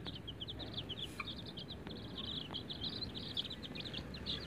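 Lovebirds chirping rapidly and continuously, a stream of short high chirps several times a second.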